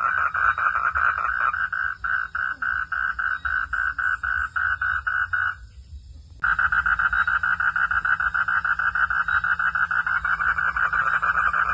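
Frogs calling in a dense chorus of rapid, evenly pulsed notes that breaks off suddenly for under a second about halfway through, then resumes. A low steady hum runs underneath.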